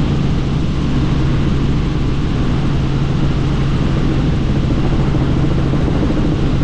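Helicopter in flight heard from on board with the doors off: a steady drone of rotor and engine with a strong low hum, over rushing air noise.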